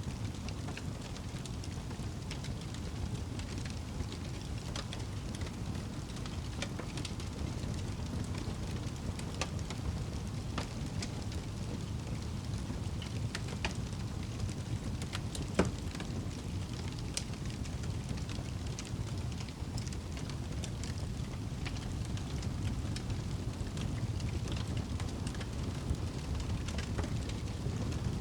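Wood fire burning in a fireplace: a steady low rumble of flame with scattered small crackles, and one sharper pop a little past halfway.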